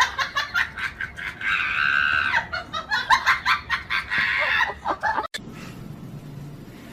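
An animal's rapid, repeated short calls, with two longer high calls among them. They stop suddenly about five seconds in, leaving a low hum.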